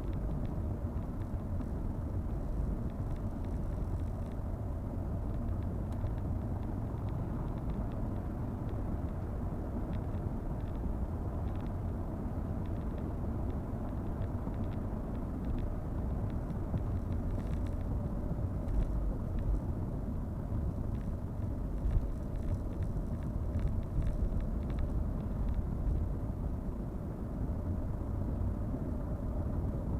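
Steady low rumble of a car driving, with a faint steady hum and a few small clicks.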